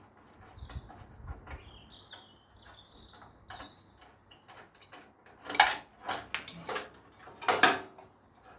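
Hand tools working loose a fastener on a motorcycle exhaust: short high squeaks through the first few seconds, then sharp metallic clanks, the loudest about five and a half and seven and a half seconds in.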